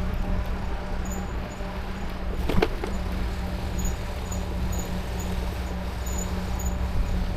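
E-bike on the move: steady low hum over road rumble, with faint high chirps repeating, and a single sharp knock about two and a half seconds in.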